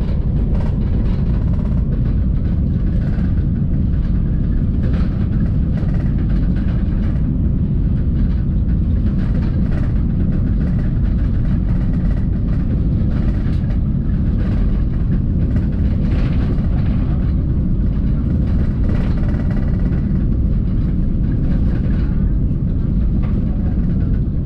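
Inside the carriage of an Italo AGV high-speed train running at about 300 km/h: a loud, steady low rumble of the train at speed.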